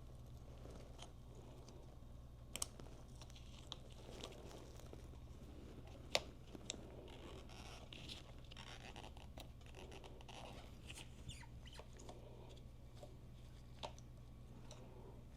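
Faint scattered clicks and light rustling of small parts and tools being handled, over a steady low hum; the sharpest click comes about six seconds in.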